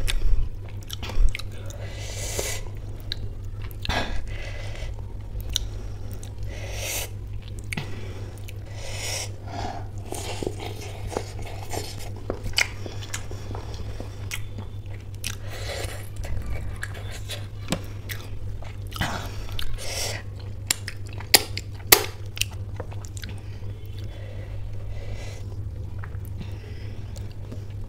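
Close-miked chewing and biting of samosa chaat with ghugni: many short, sharp mouth clicks, with a few louder ones about three-quarters of the way through, over a steady low hum.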